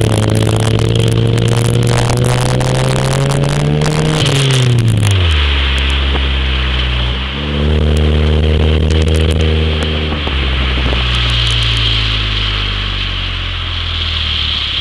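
1996 Toyota Corolla's 1.8-litre 7A-FE four-cylinder engine through a TRD exhaust, revved and held for about four seconds, then dropping back to idle. It is revved and held again for a couple of seconds before settling back to idle. Sharp clicks run through the first rev.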